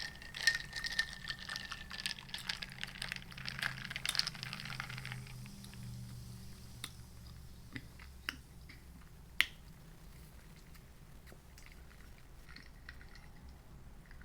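Close-miked chewing of food, wet and crackly for about the first five seconds, then only a few scattered clicks and smacks.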